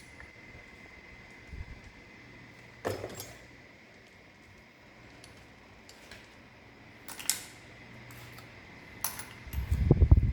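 Scattered light metallic clinks of small engine parts and tools being handled during engine disassembly. A louder low thump comes near the end.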